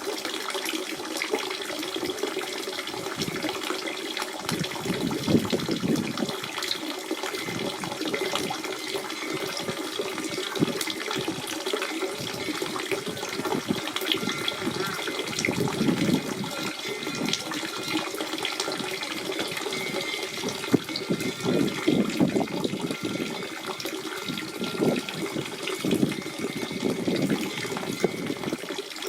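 Natural spring water running and burbling steadily, a continuous splashing flow with small surges in level.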